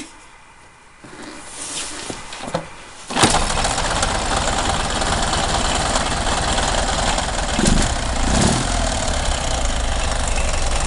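Ural M67 motorcycle's flat-twin engine catching about three seconds in after a few quiet clicks, then running steadily with a knock that the owner suspects is most likely from the pistons.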